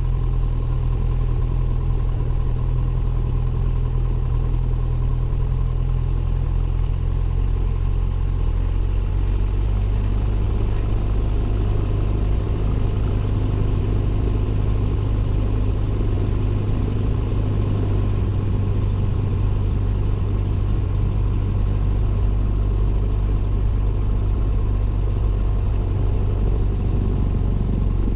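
Cessna 172N's four-cylinder Lycoming piston engine and propeller running steadily, heard from inside the cockpit. The engine note shifts slightly about ten seconds in.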